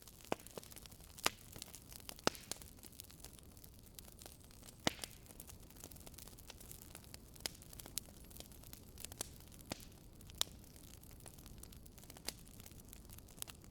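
Wood fire crackling in a fireplace: irregular sharp pops and snaps over a faint low hiss. The loudest pops come about one, two and five seconds in.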